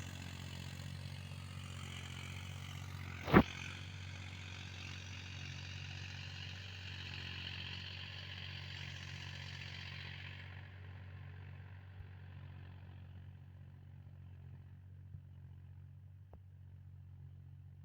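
Mahindra tractor engine running steadily in the field, with a sharp loud click about three seconds in; the higher-pitched part of the noise dies away a little past halfway, leaving a lower hum.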